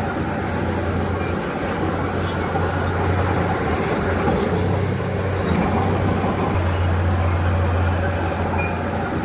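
Diesel engine of heavy earthmoving machinery running steadily, a low, continuous drone.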